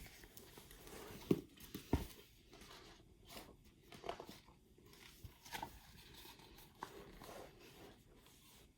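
Faint, irregular rustling with a few soft knocks, the loudest two between one and two seconds in.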